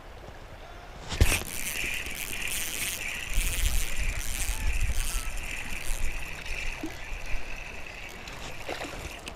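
Creek water splashing and sloshing as a hooked fish is pulled in, starting with a sharp splash about a second in, over the running stream.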